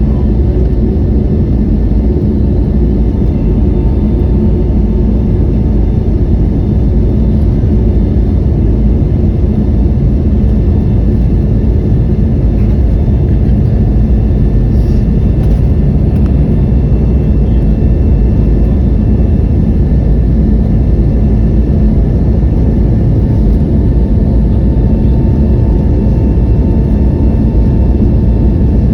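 Airbus A321neo airliner: a loud, steady low rumble of jet engines and rushing air, with a faint steady whine, unchanging throughout.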